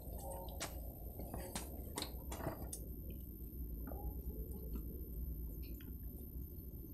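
A person chewing food close to the microphone, with wet mouth clicks and smacks; several sharp clicks come in the first few seconds, then fainter ones. A low steady rumble runs underneath.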